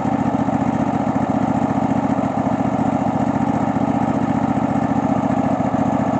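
Cub Cadet LX46 XT2 riding mower's 679 cc fuel-injected V-twin engine running steadily at idle.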